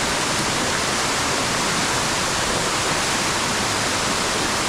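Waterfall pouring, a loud, steady rush of falling water close by.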